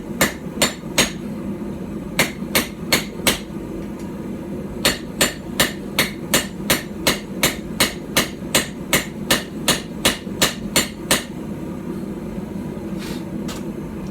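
A small hand-forged hammer of about 12 ounces striking hot steel on a tiny stump anvil, each blow a sharp ringing clang. The blows come in quick runs of about three a second with short pauses between them, and a couple of light taps come near the end.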